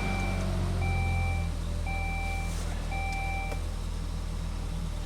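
2006 Saab 9-3 2.0T's turbocharged four-cylinder engine idling just after an extreme cold start. Over the idle, a dashboard warning chime beeps about once a second, four times, then stops about three and a half seconds in.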